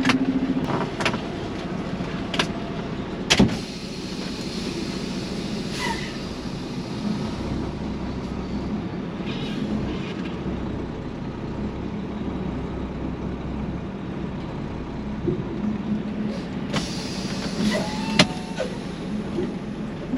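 Semi truck's diesel engine idling steadily, with a few sharp knocks and clanks, one loud one a few seconds in and a cluster near the end.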